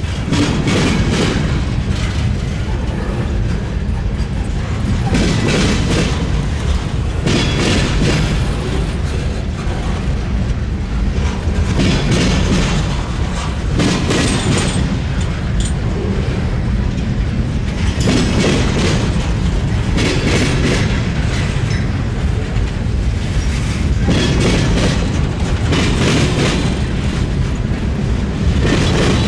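Freight train cars rolling over a railroad diamond crossing: a heavy, continuous low rumble with the wheels knocking across the crossing's gaps every second or two.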